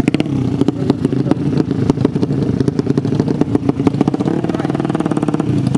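Drag-race motorcycle engine running at a steady note, with a rapid, irregular crackle of sharp clicks over it.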